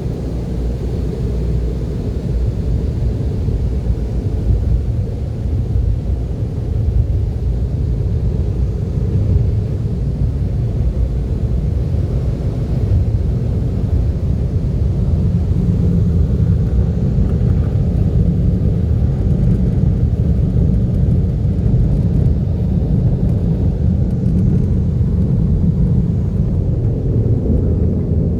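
Automatic cloth car wash running: a steady, dense low rumble that grows slightly louder about halfway through.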